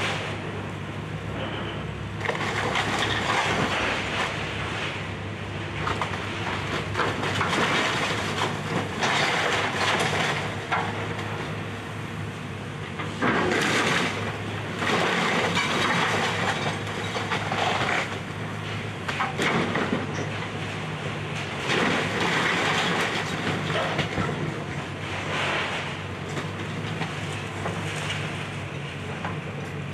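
Excavator's diesel engine running steadily while it tears down a house, with repeated crunching and cracking of breaking debris every couple of seconds, the loudest about halfway through.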